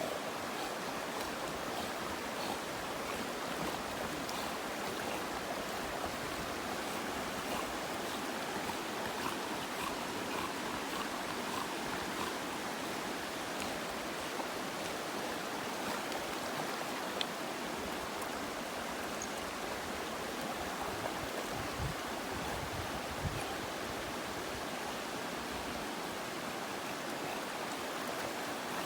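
Steady rush of stream water running over rocks, with two brief low thumps about three-quarters of the way through.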